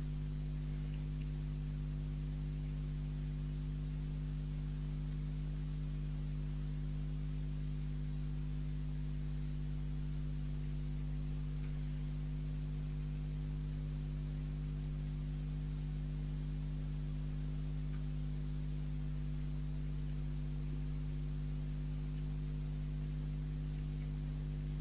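Steady mains hum, a low buzz built on 50 Hz and its odd overtones, with faint hiss and no other sound.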